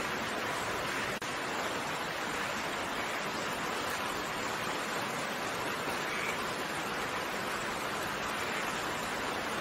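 Steady, even rain falling, a dense hiss of raindrops, with a split-second drop-out about a second in.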